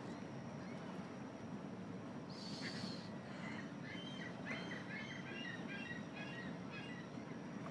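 Birds chirping: a brief high rasping call about two seconds in, then a run of quick short chirps, over a steady low outdoor rumble.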